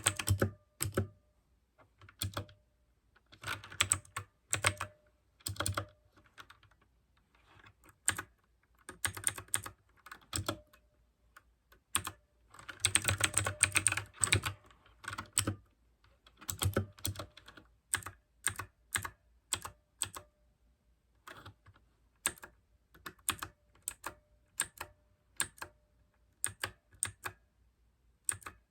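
Mechanical keyboard with clicky blue switches being typed on, in uneven runs of fast keystrokes broken by short pauses. The typing is densest about halfway through and turns to sparser single keystrokes later on.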